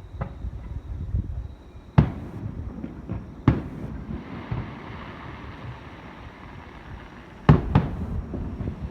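Aerial firework shells bursting: single sharp bangs about two seconds and three and a half seconds in, and a quick double bang near the end, with a crackling hiss between about four and seven seconds.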